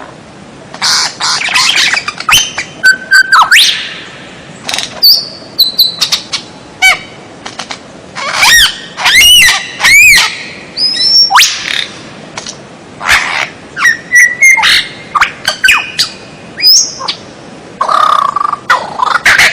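Songbird singing loud, varied phrases of whistles, rapid chirps and sweeping notes, each phrase a second or so long with short pauses between them.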